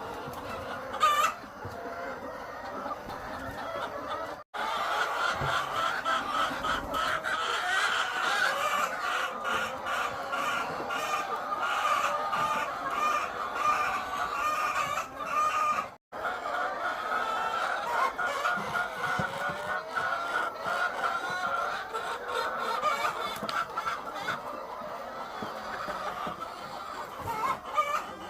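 A large flock of egg-laying hens clucking together in a dense, continuous chorus, with a sharp knock about a second in. The chorus cuts out twice, very briefly.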